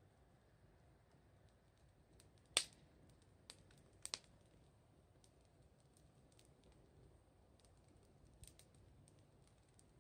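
Wood fire crackling softly, with scattered sharp pops from the burning wood, the loudest about two and a half seconds in and a quick double pop around four seconds.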